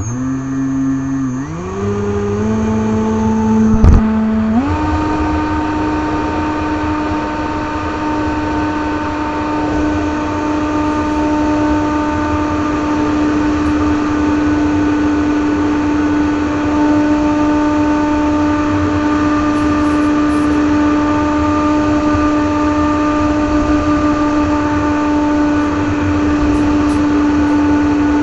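RC airplane's 2200KV brushless motor spinning a 6x4 propeller, heard from on board. Its whine steps up in pitch twice in the first five seconds as the throttle is raised, then holds a steady high whine over a constant rushing noise. There is a sharp knock about four seconds in.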